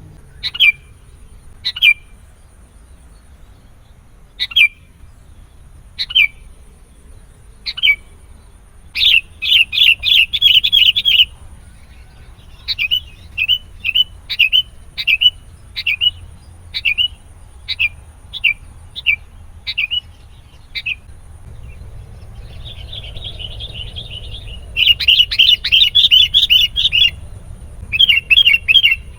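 Sooty-headed bulbul calling: sharp single call notes every second or so, then bursts of fast chattering, a run of quick notes about two a second, and more chattering bursts near the end.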